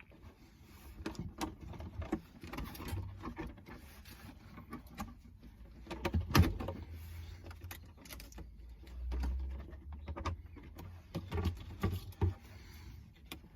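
Irregular clicks, knocks and rustling of hands handling the plastic parts of a radio-controlled car, with one louder knock about six seconds in.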